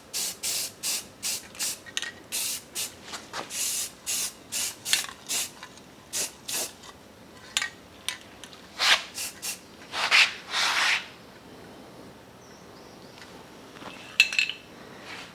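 Aerosol spray can of primer sprayed in quick short hissing bursts, about two a second, stopping about eleven seconds in. A sharp metallic clink follows near the end.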